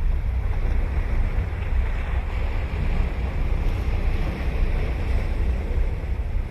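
Ocean surf washing onto a beach, with wind buffeting the microphone as a steady low rumble under the waves.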